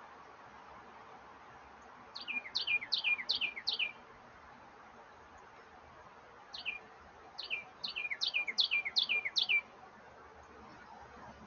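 A songbird singing in two runs of quick, steeply falling whistled notes, about three a second. The first run has about five notes, the second, near the middle, about eight. A steady background hiss lies under them.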